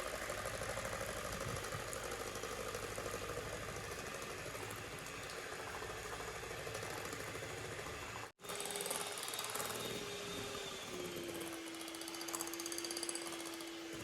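Electric mixer whipping cream for frosting: a steady motor whir with the beaters churning in the bowl. It breaks off for an instant about eight seconds in, then comes back with a steady whine whose pitch drops a little near eleven seconds.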